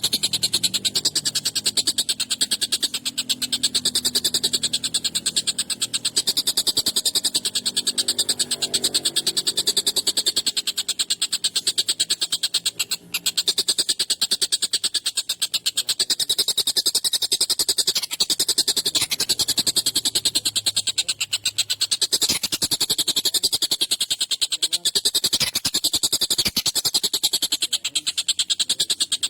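Tengkek buto kingfisher calling continuously in a harsh, high-pitched, rapid chatter of tightly packed repeated notes, with barely a break.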